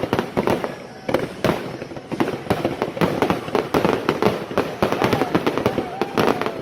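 Fireworks display: a dense run of bangs and crackling pops, many per second, easing briefly about a second in before picking up again.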